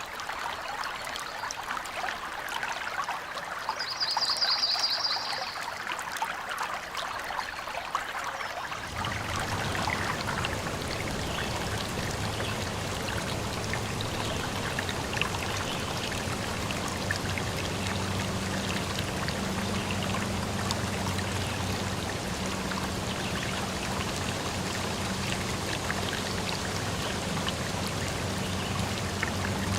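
Water of a small stream flowing and trickling, with a brief high trill about four seconds in. About nine seconds in the sound changes to a fuller, deeper rush of water with a faint low steady hum under it.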